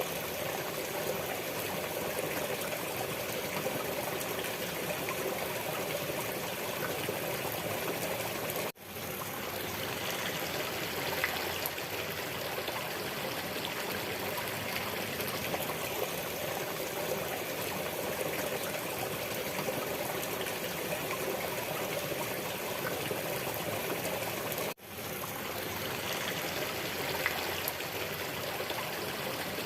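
Running water of a stream, a steady trickling flow. The sound cuts out for an instant about nine seconds in and again about sixteen seconds later, fading straight back each time, like the joins of a looped recording.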